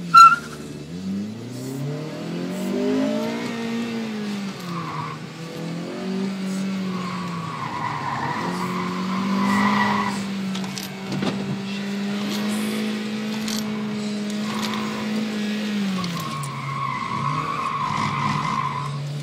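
Heard from inside the cabin, a 2009 Honda Civic Si's four-cylinder engine revs hard through the gears, dropping at a shift, holding high revs for several seconds and easing off near the end. Over it, the tyres squeal in long stretches as the front end understeers, and loose change rattles in a console compartment. A sharp knock comes just after the start.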